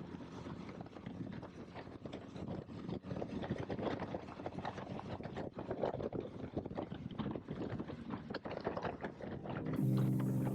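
Wind buffeting the microphone of a helmet-mounted camera on a moving motorcycle, a rough, uneven rushing. Music comes in near the end.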